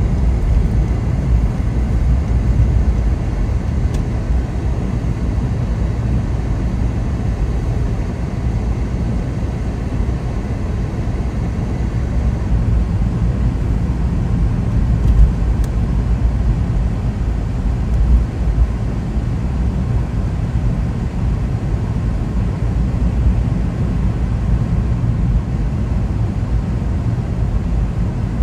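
A car driving: steady low rumble of engine and tyres on the road, with a few slightly louder bumps about 15 and 18 seconds in.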